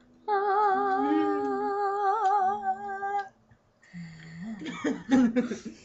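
A girl singing one long held note with a wavering vibrato for about three seconds, with a lower hummed voice under the start of it. After a short pause comes a stretch of voices near the end.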